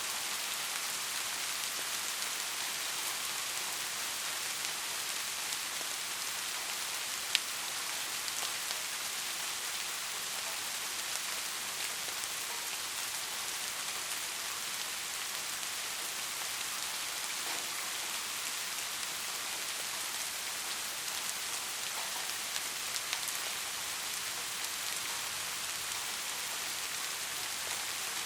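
Steady rain falling on a surface, an even hiss of many drops with scattered individual drop ticks and one sharper drop about seven seconds in.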